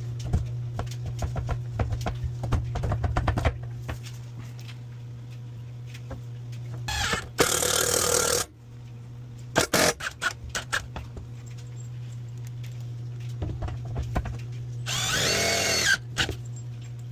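Power drill run in two short bursts, with rattling and clicking of handled parts between, over a steady low hum.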